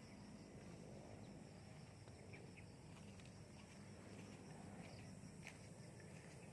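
Near silence: faint outdoor ambience with a low steady hum and a few faint, short, high chirps.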